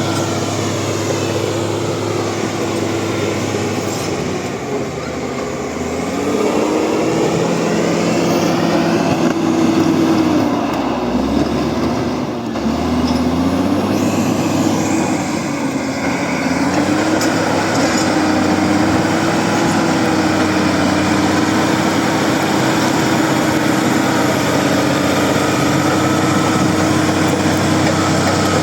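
A bulldozer's diesel engine running loudly. Its note wavers with load, rising about six seconds in and dipping briefly and recovering near the middle.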